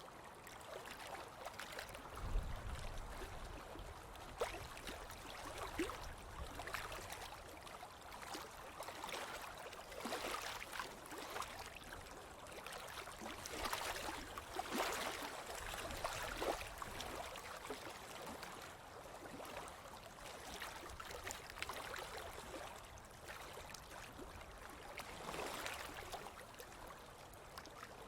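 Ocean waves washing onto a beach, the surf swelling and fading every several seconds with crackling splashes as the water breaks. A brief low rumble comes about two seconds in.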